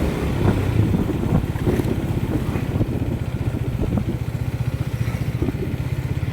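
Motorcycle engine running at a steady pace while riding, a low, even pulsing exhaust note.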